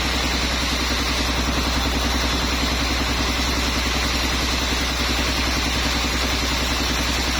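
An engine running steadily at an even speed, with a fast regular throb over a low hum. It neither changes pitch nor comes under load, as it would while a saw is cutting.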